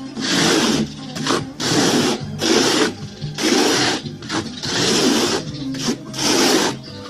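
A plastering trowel scraping across wet decorative plaster on a wall in about six or seven separate strokes, each roughly half a second to a second long, the way the 'rain' texture is worked in. Quiet background music runs underneath.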